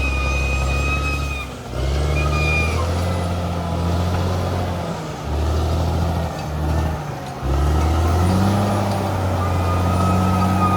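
Bulldozer's heavy diesel engine running under load, its note dipping and picking back up several times, with a steady high whine above it.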